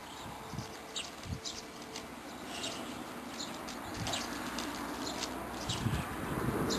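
Small birds chirping in the background: many short, high chirps scattered throughout, with a few soft thuds.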